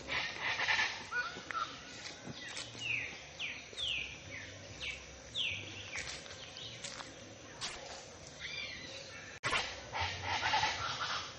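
Birds singing. One bird repeats a run of about six quick falling whistled notes, roughly one every half second, in the first half, among scattered chirps.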